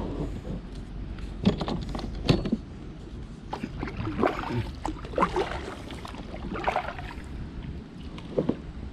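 Kayak paddle dipping and splashing in the water in irregular strokes, over a low rumble of wind on the microphone.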